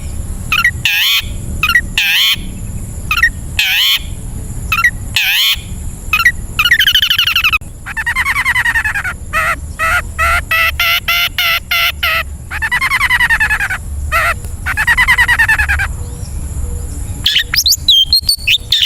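Long-tailed shrike (cendet) singing a varied song: sharp downward-sweeping calls, then long rapid buzzy rattles, then quick chattering near the end. A steady high tone runs underneath.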